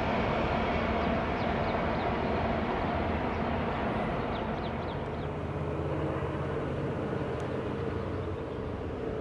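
A freight train's autorack cars rolling across a railroad trestle, a steady rumble of wheels on rail that slowly fades. About halfway through, a distant diesel locomotive's steady drone takes over.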